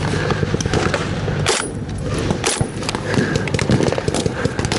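Blank-firing rifles and machine guns in a close, continuous exchange of fire, many scattered shots overlapping, with two louder, nearby cracks about a second and a half and two and a half seconds in.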